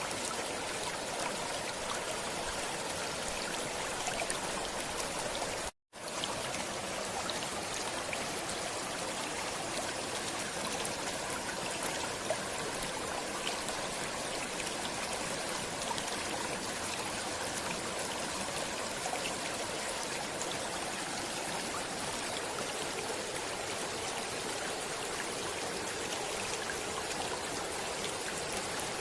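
Stream water running steadily. The sound cuts out to silence for a moment about six seconds in, then comes straight back.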